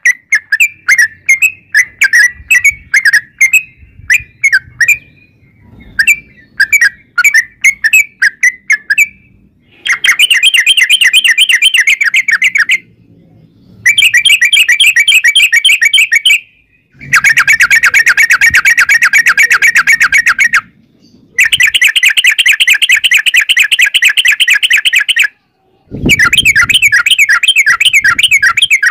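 Yellow-vented bulbul (trucukan) singing: a run of quick, separate chirping phrases, then long, fast rolling trills in bouts of a few seconds each with short breaks between. A brief low thump comes about 26 seconds in.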